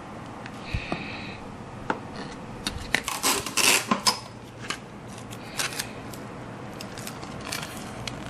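Hands handling small craft materials and tools on a work surface: scattered light clicks and taps, with a cluster of louder rustling and crackling about halfway through.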